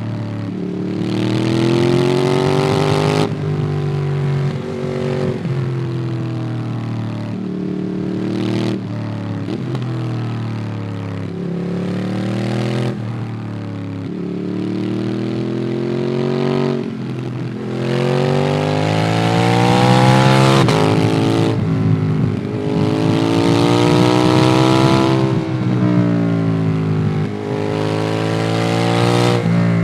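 Ducati Monster 821's 821 cc L-twin engine through a QD Twin Gunshot aftermarket exhaust, heard from the rider's back while riding. The bike pulls hard through the gears: revs climb, drop at each shift and climb again, several times over. There are rolls off the throttle in between, and a rushing hiss rises with the hardest acceleration.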